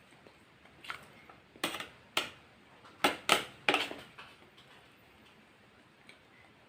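Close-miked eating sounds: about six sharp, crisp crunches and mouth clicks in the first four seconds, from biting and chewing KFC fried chicken.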